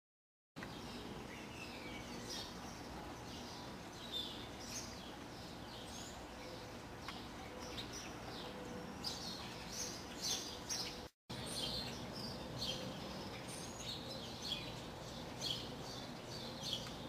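Small birds chirping, many short quick chirps over a steady background hiss. The sound starts after a brief silence and cuts out for an instant about two-thirds of the way through.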